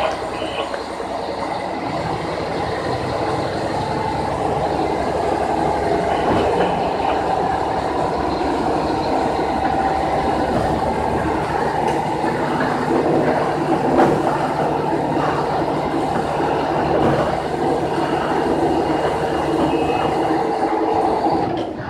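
Kashima Rinkai Railway diesel railcar moving off, heard from the driver's cab: a steady engine note under the clatter of wheels over rail joints and yard switches, with one sharper knock about two-thirds of the way through.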